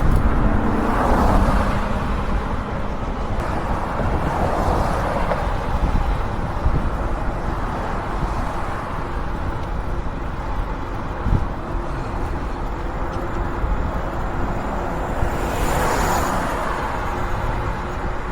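Road traffic: cars passing on the road alongside, swelling up and fading three times, about one, four and sixteen seconds in, over a steady low rumble.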